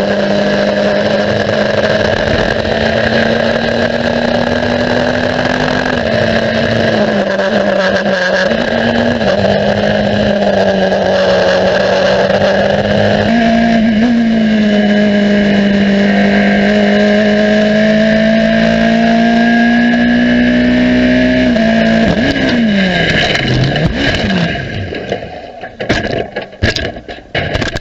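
Racing car engine running hard at high revs, its pitch stepping up and down with gear changes. About three-quarters of the way through the revs fall away sharply, and near the end the sound breaks up into irregular knocks and crackles.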